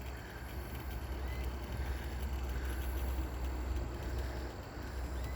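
Wind buffeting a phone microphone outdoors: a steady, gusty low rumble.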